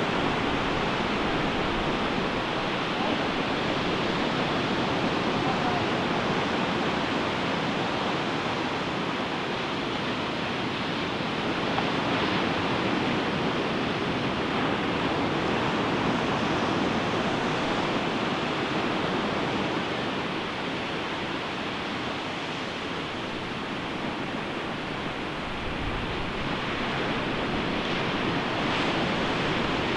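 Ocean surf breaking and washing up a beach: a steady wash of waves that eases slightly a little past the middle and builds again near the end.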